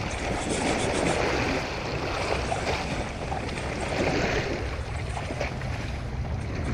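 Open-sea water washing and wind on the microphone, swelling and easing twice over a steady low rumble.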